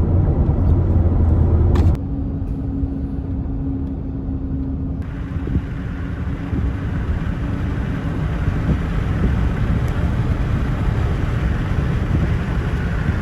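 Steady engine and road noise heard inside the cab of a Ford F-150 pickup truck on the move. The sound changes abruptly twice in the first five seconds.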